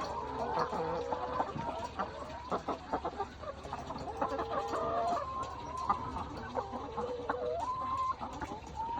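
A flock of laying hens clucking and calling, several at once and overlapping, with some drawn-out, level calls among the short clucks.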